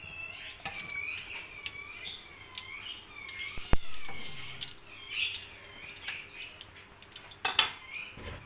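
Birds chirping in the background, a run of short repeated calls. A single sharp knock comes about three and a half seconds in, the loudest sound, and a short clatter comes near the end.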